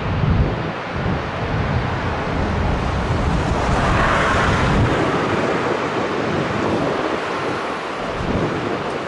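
Airbus A350-900's Rolls-Royce Trent XWB jet engines running, a loud rumbling roar with wind buffeting the microphone; the roar swells brighter about four seconds in.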